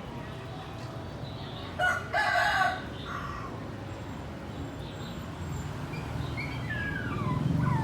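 A rooster crows once, about two seconds in, over a steady low rumble. Near the end the rumble of the approaching Airbus A320 grows louder, with tones gliding down in pitch.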